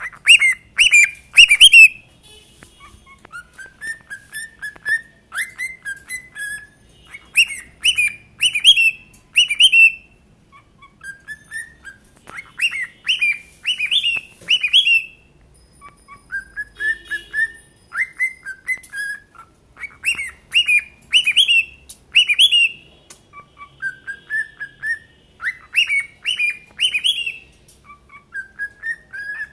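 Pet cockatiels singing: whistled phrases of short notes stepping up in pitch, repeated over and over with short pauses between phrases.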